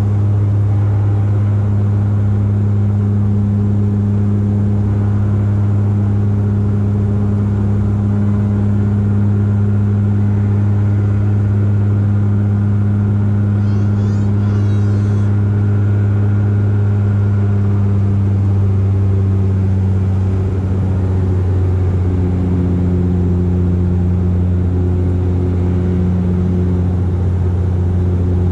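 Steady droning hum of an ANA Dash 8-400's Pratt & Whitney PW150A turboprops and six-blade propellers at high power, heard inside the cabin. About 21 seconds in the drone drops slightly in pitch.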